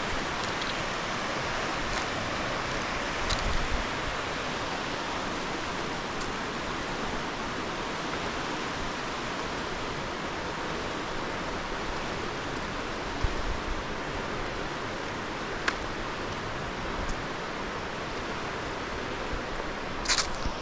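Steady rushing of flowing water, with a few short clicks and taps scattered through it.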